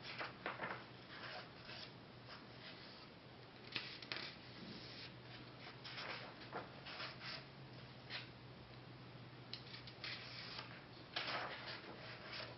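Pages of a paperback coloring book being turned and handled: a string of brief papery rustles and flicks, spaced a second or more apart.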